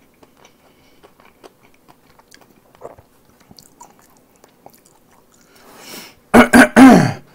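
Close-miked chewing of cold jokbal in mustard sauce, with small wet mouth clicks. About six seconds in there is a sharp rising intake of breath, then a loud voiced gasp and groan that falls in pitch: a reaction to the sting of the mustard.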